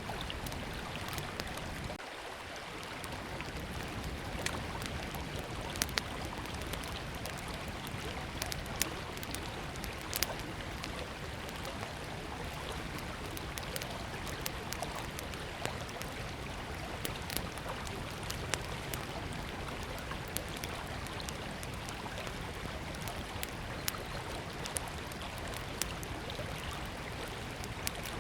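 Small wood campfire crackling with scattered sharp pops over the steady rush of a flowing river.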